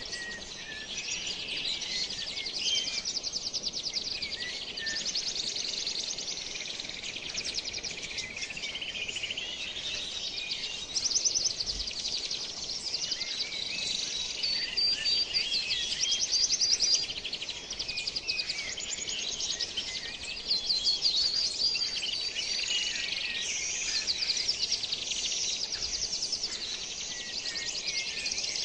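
Many birds singing and calling at once, a dense chorus of overlapping rapid trills and chirps that never lets up.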